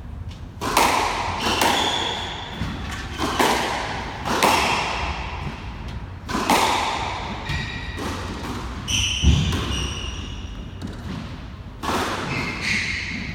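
A squash rally: the ball smacked by rackets and hitting the walls, each impact ringing in the enclosed court, about eight or nine hits at an uneven pace. Court shoes squeak on the floor a couple of times in the second half.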